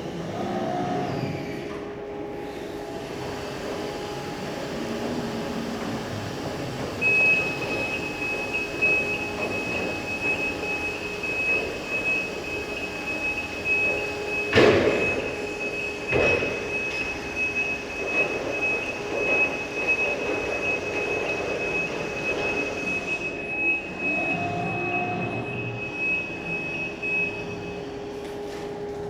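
Electric reach truck running, its motor and drive whining with steady tones. A high steady tone comes in about seven seconds in and stops near the end, and two sharp knocks come a second and a half apart midway.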